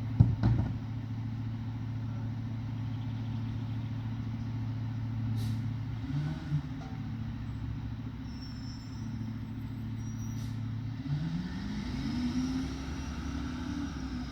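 Mack Granite garbage truck's diesel engine idling steadily, with a sharp bang just after the start. About eleven seconds in the engine revs up and holds at higher revs.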